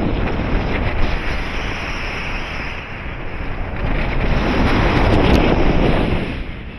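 Airflow rushing over the microphone of a paraglider in flight: a loud, wind-buffeted roar that eases a little about three seconds in, swells again and drops off near the end.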